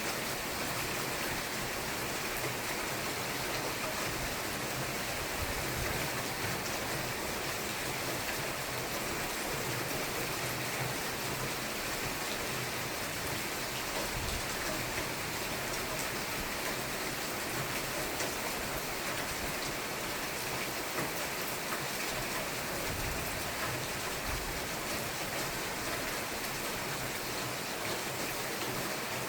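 Steady rain falling in a thunderstorm, an even hiss without pauses and no distinct thunderclap.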